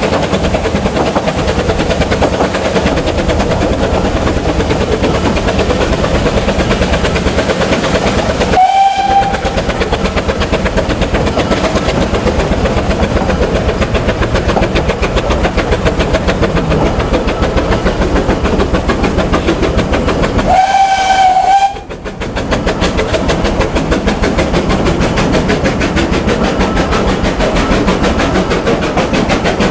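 Narrow-gauge steam tank locomotive Vale of Rheidol No. 8 (2-6-2T) hauling its train, a steady rapid rhythmic running noise. Its steam whistle sounds a short blast about nine seconds in and a longer blast about twenty-one seconds in.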